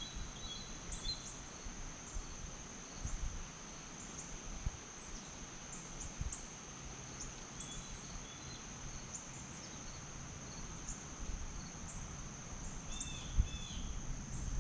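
Outdoor ambience: insects giving a steady, high-pitched drone, with a few short bird chirps near the end and occasional low bumps.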